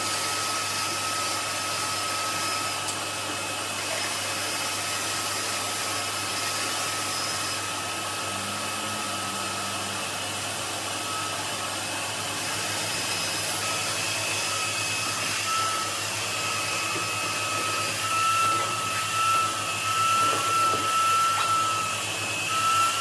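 Vacuum cleaner running steadily, a constant rushing noise with a high steady whine, getting a little louder and more uneven in the last few seconds.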